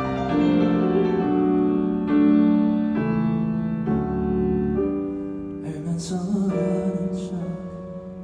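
Live piano playing slow, sustained chords of a ballad over a concert sound system, the chord changing about once a second. In the second half there are a few brief high hissing sounds.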